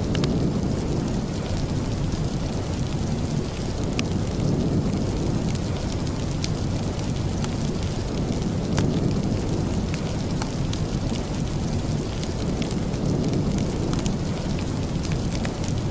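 Steady rain with a deep rumble underneath, and a few single sharp crackles of a wood fire.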